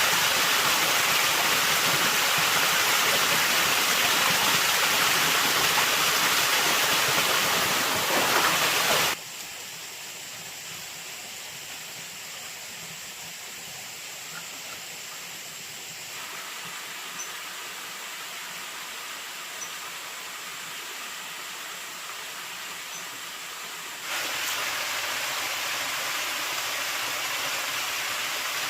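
Steady rushing water from a stream or waterfall. It drops abruptly to a quieter level about nine seconds in and jumps back up near the end.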